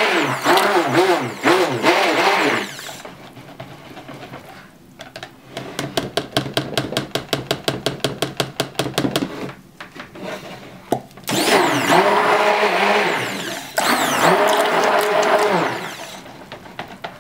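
Handheld stick blender mixing colorant into a portion of soap batter, run in two bursts: one of about two and a half seconds with a wavering motor pitch, then, near the end, a steadier one of about four seconds. Between the bursts comes a quick run of clicks, about seven a second, from stirring against the container.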